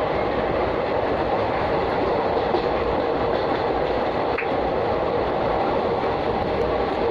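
Moving passenger train heard from inside the coach at a barred window: a steady running rumble and rush of wheels on the rails and air.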